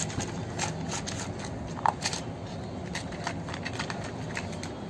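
A dog eating, with irregular faint clicks and crunches of chewing, and a brief squeak about two seconds in.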